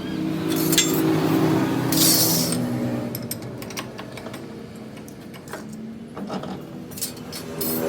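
Metal tools and parts clinking and tapping against each other, a series of light, irregular metallic clinks over the second half. In the first couple of seconds steady tones, carried over from the music before, fade out, with a brief hiss about two seconds in.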